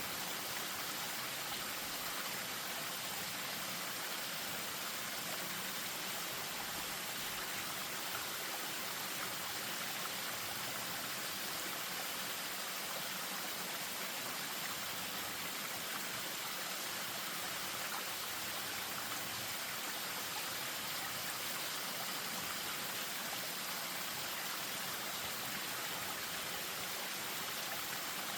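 Spring-fed stream splashing over a small waterfall: a steady, even rush of running water.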